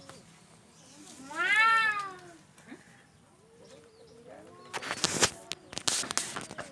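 Cats in a standoff yowling: low, drawn-out wavering growls, and one loud yowl that rises and falls about a second and a half in. Near the end comes a run of loud, harsh, noisy bursts.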